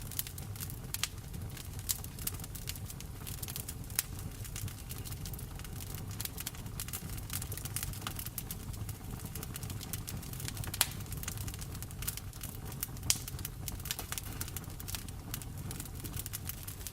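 Wood fire in a fireplace crackling, with frequent irregular sharp pops, over a steady hiss of rain and a low rumble.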